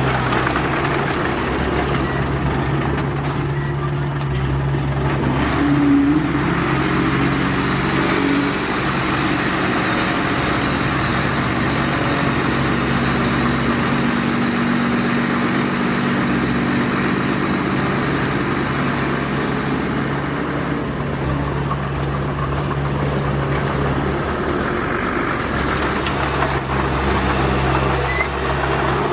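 Bulldozer's diesel engine running steadily under working load. Its note rises about five seconds in and settles back about twenty seconds in.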